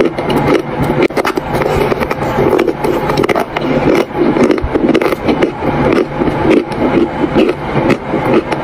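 Close-miked chewing of dry chalk: crisp crunching and gritty crackling as the chalk is ground between the teeth, in a steady chewing rhythm.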